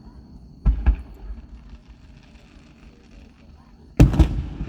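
Fireworks going off: two sharp bangs close together about a second in, then a louder cluster of bangs near the end.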